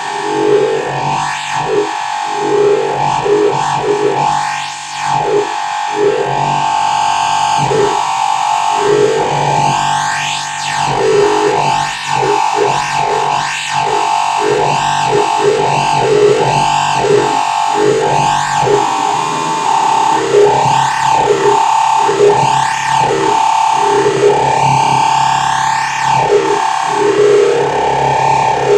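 Modular synthesizer lead: a distorted, FM-modulated sawtooth oscillator playing a fast sequenced pattern of short notes through a filter and echo. A steady high tone runs under it, and sweeps rise and fall repeatedly in the upper range.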